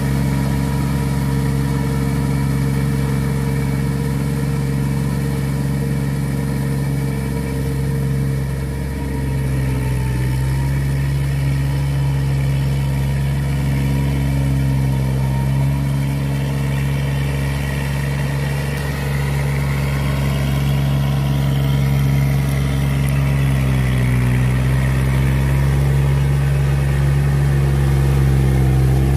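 Kubota four-wheel tractor's diesel engine running steadily, its pitch dipping and recovering briefly about nine seconds in and again about twenty-four seconds in.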